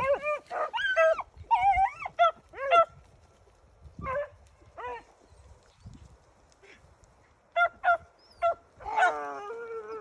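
Pack of beagles baying as they run a cottontail rabbit's track: clusters of short barks and yelps over the first few seconds, a couple more about four to five seconds in, then quick yelps and a drawn-out bay near the end.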